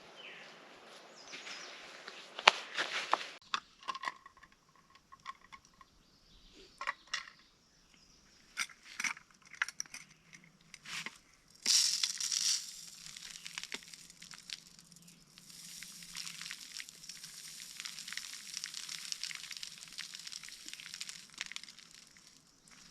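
Plastic packaging of a suet cake crinkling and being torn open, with scattered clicks and taps of handling. There is a louder burst of crinkling about twelve seconds in, followed by a longer stretch of soft rustling.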